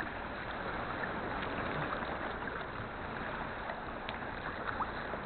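Steady wash and lapping of sea water around a sea kayak as it is paddled slowly, with a few faint small splashes.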